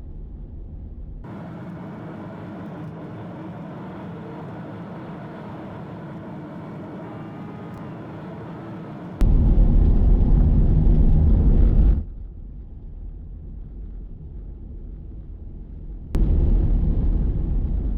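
Road and tyre rumble from a Toyota Prius driving a forest logging road, in edited stretches that cut off suddenly: a steady rumble, then two louder stretches of heavy low rumble.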